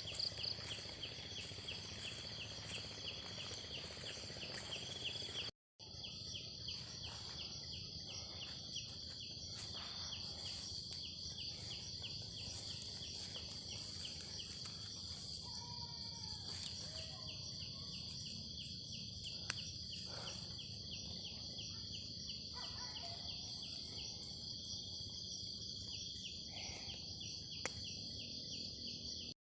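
Chorus of forest insects: a steady high-pitched buzz with a fast, regular pulsing chirp under it, briefly cut out about six seconds in.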